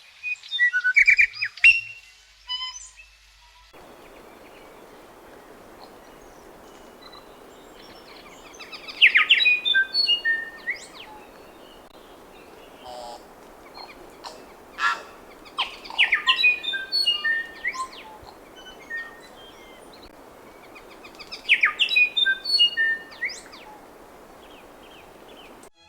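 Tūī singing: rapid phrases of clicks and short whistled notes, in bursts a few seconds apart. A steady hiss of background noise lies beneath them from about four seconds in.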